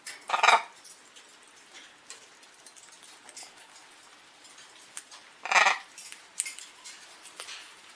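Caged pet birds: two short harsh bursts about five seconds apart, with light scattered ticks and taps in between.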